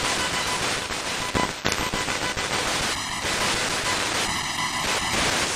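SBox spirit box sweeping through radio stations: a steady loud hiss of radio static, with short buzzy tone fragments chopping in and out from about halfway through.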